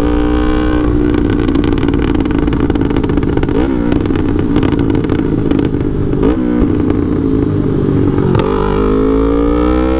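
Yamaha R3's 321 cc parallel-twin engine through a FullPro aftermarket full exhaust, ridden. The revs drop sharply at the start as it changes gear, hold roughly steady with a couple of small blips, then climb steadily again as it accelerates near the end.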